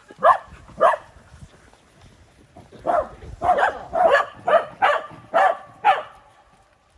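Welsh corgi barking: two sharp barks, a short pause, then a quicker run of about seven barks, roughly two a second. It is barking at people it doesn't recognise in fur hats and masks.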